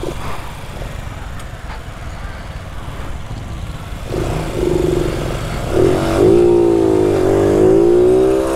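Honda Biz 125's single-cylinder four-stroke engine idling at a stop, then from about four seconds in revving up as the bike pulls away, its pitch rising and holding. Near the end the engine note drops briefly as it shifts up a gear.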